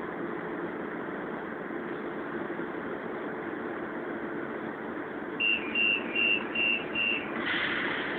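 Lisbon Metro train's door-closing warning: five short, high beeps about a third of a second apart, starting about five and a half seconds in, over the steady hum of the train standing at the platform. A rush of noise follows the last beep near the end.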